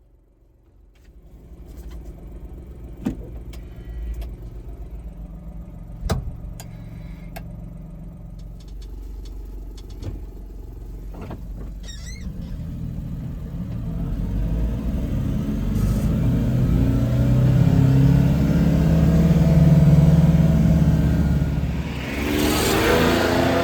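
2000 Suzuki Carry kei truck's small three-cylinder engine running and pulling away, with several sharp clicks and knocks in the first ten seconds or so. From about halfway through the engine grows louder and rises in pitch under acceleration, and a hissy rush comes near the end.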